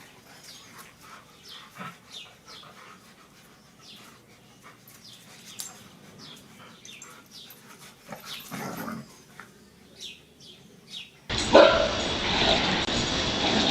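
A dog making many short, high whines and yips, with a fuller bark or growl about eight and a half seconds in. Near the end it gives way abruptly to a much louder, steady rushing noise.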